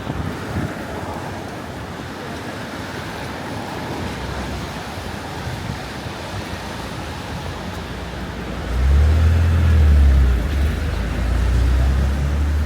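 Traffic on a rainy city street: a steady hiss of tyres on wet road, then from about nine seconds in, the deep engine rumble of a nearby vehicle becomes the loudest sound.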